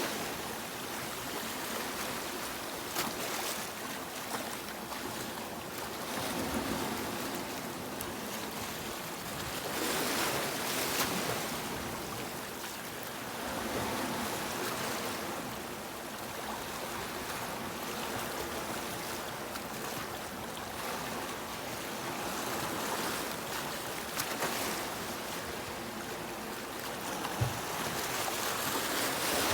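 Sea waves breaking and washing up a beach: a steady hiss of surf that swells and eases every few seconds.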